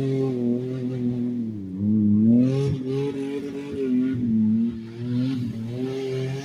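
SUV engine revving hard as the vehicle spins circles on loose dirt, its pitch rising and falling over and over.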